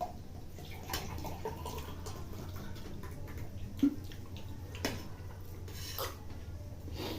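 Light clicks and taps of utensils against dishes while people eat kheer, a handful spaced about a second apart, over a low steady hum.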